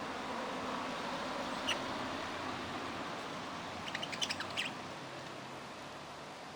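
Small pet parrots chirping: one short chirp, then a quick burst of several high chirps about four seconds in, over a steady background hiss.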